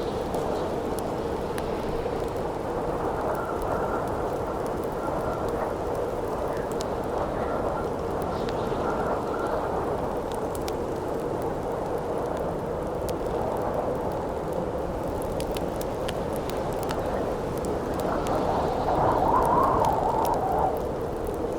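Howling wind blowing steadily, with a faint whistle a few seconds in and a stronger gust near the end, over the scattered crackles and pops of a wood campfire.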